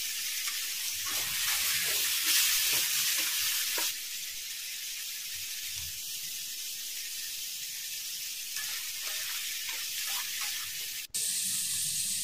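Prawns frying in hot oil in a kadhai, a steady high sizzle that is louder for the first few seconds and then settles; it cuts out briefly near the end.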